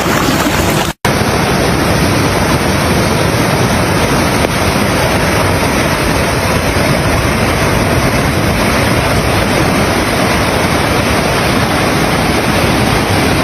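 Loud, steady rushing of floodwater with wind buffeting the microphone. It cuts out for an instant about a second in, then carries on unchanged.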